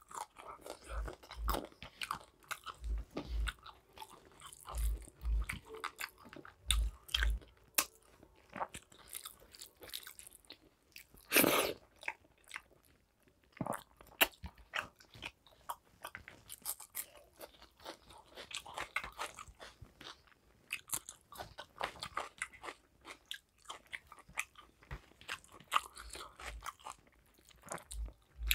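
Close-miked eating sounds of a person chewing mouthfuls of rice and curry eaten by hand, with many short clicks and smacks of the mouth. There is one louder burst a little before the middle.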